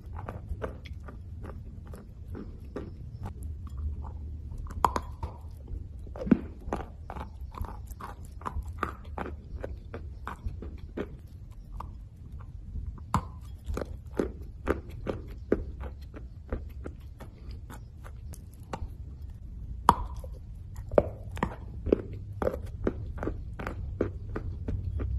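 A person biting and chewing a lump of roasted clay up close: crunches a few a second, in runs broken by short pauses. A steady low hum lies underneath.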